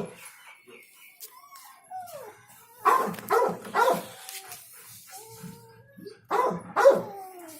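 Puppy barking in short yelping bursts, three barks about three seconds in and two more near the end, with high whining between them.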